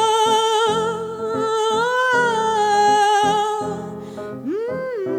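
A woman's voice holds a long wordless note with vibrato over piano chords, rising slightly about two seconds in and sliding up to a new held note near the end.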